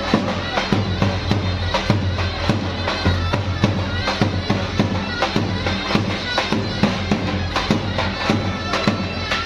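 Traditional folk wedding music: a reedy, bagpipe-like wind instrument plays held notes over a steady drum beat.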